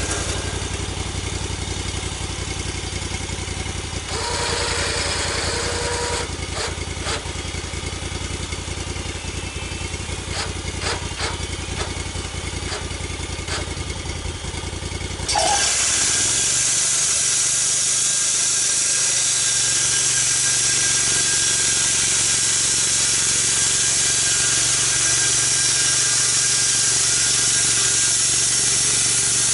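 Portable sawmill's engine running steadily with a few knocks. About halfway through, the engine note changes and a loud, steady hiss sets in as the saw cuts.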